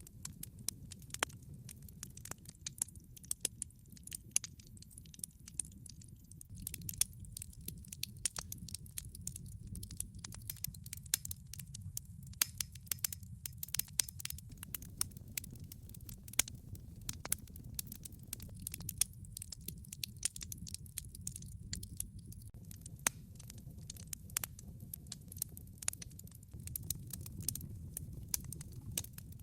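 Wood fire burning in a fireplace: logs crackling with frequent irregular sharp pops and snaps over a steady low rumble of the flames.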